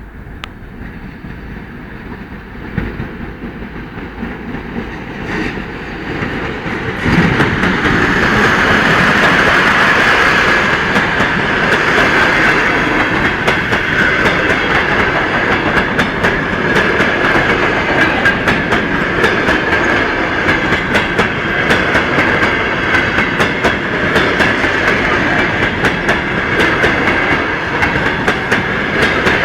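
A ChS2 electric locomotive hauling a passenger train approaches, growing steadily louder, and the sound jumps sharply about seven seconds in as the train reaches the microphone. The coaches then roll past with a steady rhythmic clickety-clack of wheels over the rail joints.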